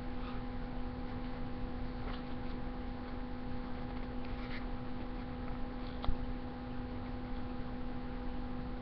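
Steady electrical hum over room noise, with a few faint clicks and a soft knock about six seconds in.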